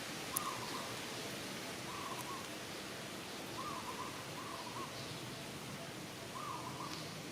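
Short hooting calls from an animal, repeated every second or two, over a steady outdoor hiss; a single sharp click sounds about half a second in.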